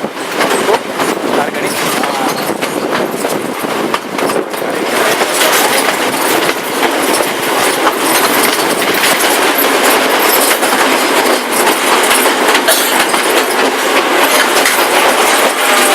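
Passenger train under way, heard from a carriage: a loud, steady rushing rumble with a constant clatter of the wheels over the rail joints, growing a little louder a few seconds in.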